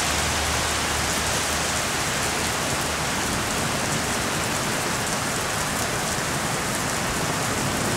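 Rain falling steadily during a thunderstorm, with a low rumble of thunder dying away in the first few seconds.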